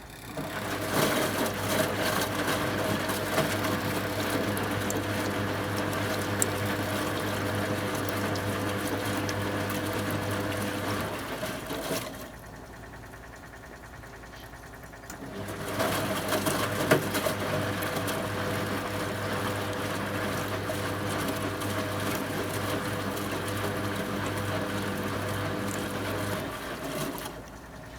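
1974 Zoppas Superautomatic 242 washing machine's drum motor running steadily with a low hum for about eleven seconds, stopping for about three seconds, then running again for another eleven or so: the on-pause-on rhythm of the drum turning during the wash.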